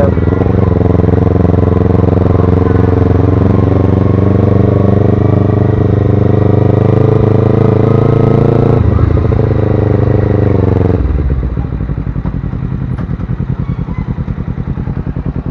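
Motorcycle engine running at a steady speed with wind noise. About nine seconds in the note shifts, and about eleven seconds in it drops to a quieter, low putter like an idle.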